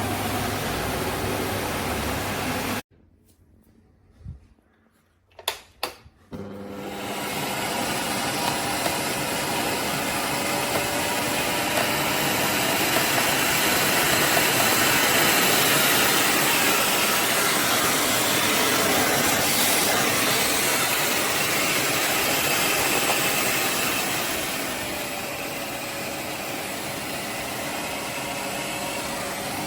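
Philips Series 3000 Performer Compact 900 W bagged vacuum cleaner running, switched off about three seconds in, a few clicks, then switched back on and spinning up. It runs steadily, grows louder in the middle and settles to a lower level near the end.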